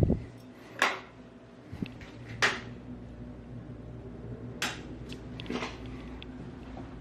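A few short, sharp clicks and knocks of things being handled in a small room, four in all spread over several seconds, over a steady low hum.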